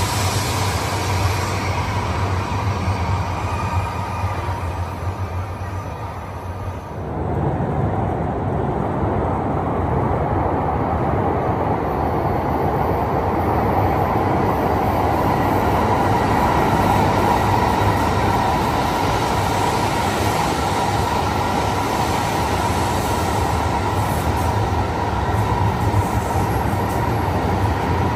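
Shinkansen trains running through an underground station platform without stopping: a steady rushing rumble of wheels and air that eases off about six seconds in, then rises abruptly about seven seconds in and stays loud.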